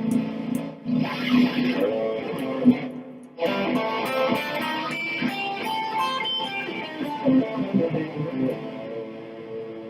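Electric guitar played through distortion, a run of notes with sustained tones, breaking off briefly about three seconds in and then picking up again.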